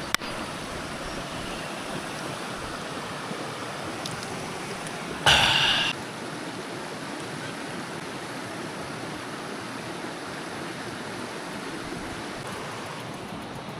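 Creek water flowing steadily. There is a click at the very start, and a short, loud, noisy sound about five seconds in.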